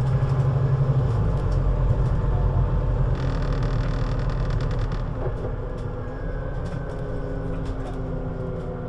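Scania CN320UA 6x2/2 Citywide city bus engine running steadily, its note easing off slightly about five seconds in.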